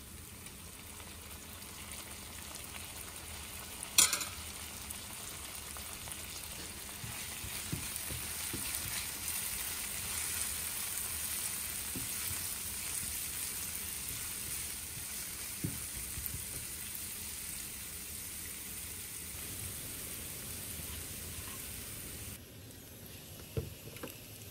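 Sliced onions, cumin seeds and green chillies sizzling in hot oil in a nonstick frying pan as they are fried until brown, with a steady hiss. There is a sharp knock about four seconds in and light taps of a silicone spatula stirring. The sizzle drops near the end.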